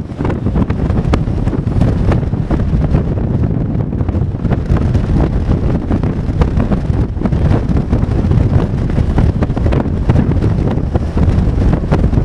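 Strong wind buffeting the microphone: a loud, steady low rumble with many short crackles throughout.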